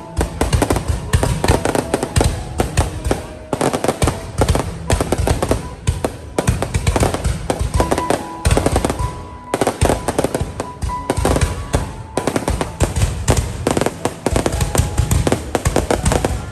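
Fireworks display going off in rapid, near-continuous bangs and crackles, several a second, over a low rumble.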